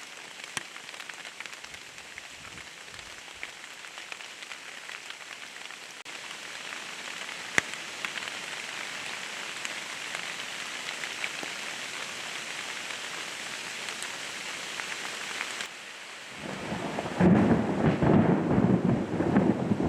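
Steady rain falling, growing heavier about six seconds in. Near the end a close thunderclap sets in, a loud low rumble that swamps the rain.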